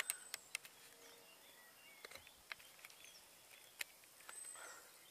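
Quiet outdoor ambience with a few faint, brief bird chirps and scattered light clicks.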